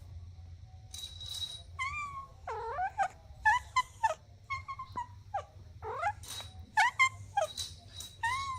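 Kittens mewing: a quick run of a dozen or so short, high-pitched mews, some rising and some falling in pitch, beginning about two seconds in.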